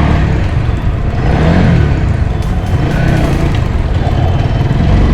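Honda Supra GTR 150's single-cylinder engine running while the bike is ridden, under a heavy rumble of wind on the microphone.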